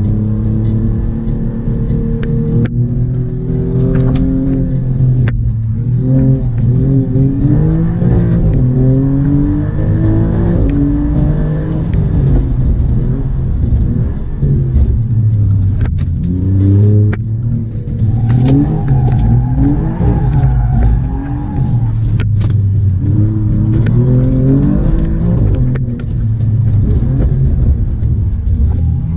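Alfa Romeo Giulia Quadrifoglio's twin-turbo V6 heard from inside the cabin under hard driving, its revs climbing and dropping again and again.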